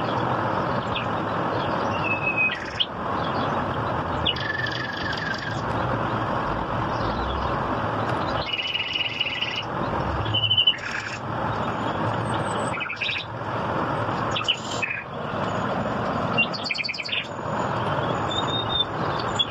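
Small birds chirping and calling: many short chirps, quick trills and a buzzy call of about a second, over a steady rushing background hiss.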